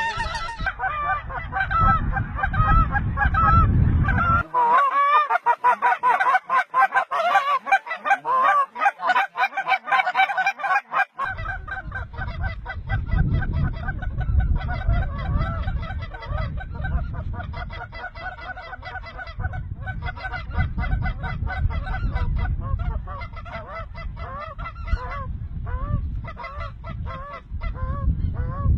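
A large flock of geese calling, many overlapping honks at once, with wind rumbling on the microphone except for a few seconds early on.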